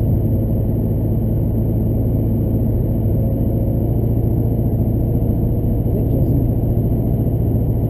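Chevrolet Duramax LB7 6.6-litre V8 turbodiesel pickup cruising at a steady pace, heard from inside the cab: an even, low engine drone with road noise.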